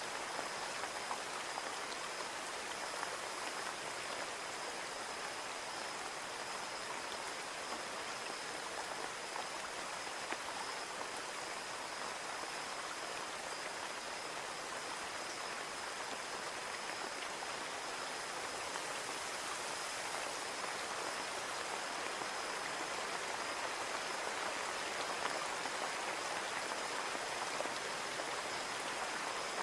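Steady rain falling on a window pane: an even hiss of many drops, getting a little louder toward the end.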